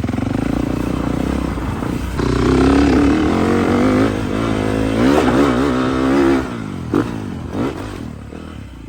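Small off-road engine revving hard. It climbs in pitch about two seconds in, holds at high revs, then drops off about six and a half seconds in, with two short blips near the end as it fades.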